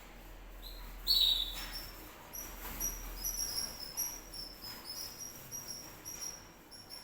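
Canary singing: a louder note about a second in, then a rapid run of short, high chirping notes.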